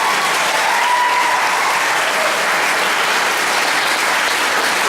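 An audience applauding, a steady dense clapping that holds at full strength throughout.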